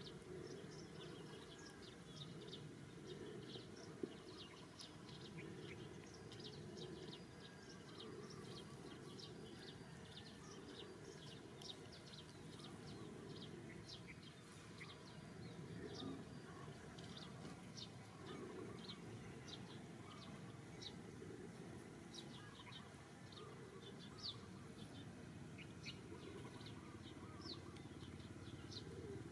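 Faint outdoor ambience of small birds chirping: many short, high chirps scattered throughout over a low steady hiss.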